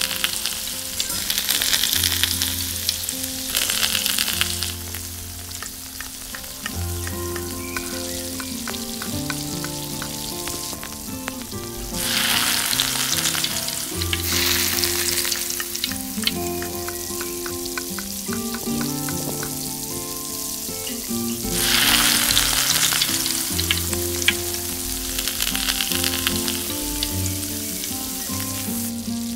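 Food frying in a miniature pan: a sizzling hiss that swells louder a few times, with small clicks of stirring. Background music with a melodic bass line plays underneath.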